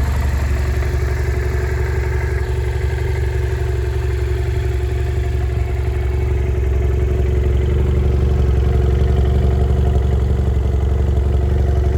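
BMW F650GS 798 cc parallel-twin engine idling steadily, growing slightly louder in the second half.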